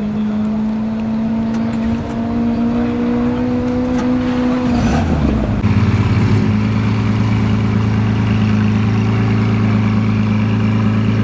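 Lamborghini Aventador S Roadster's naturally aspirated 6.5-litre V12 running at a steady low engine speed, its pitch creeping up slightly. About five seconds in the pitch drops and the engine settles into a lower, slightly louder steady drone.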